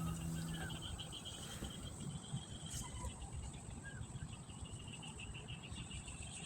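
Insects chirping in a steady, rapidly pulsing high chirr, with a few short bird chirps over a low background rumble.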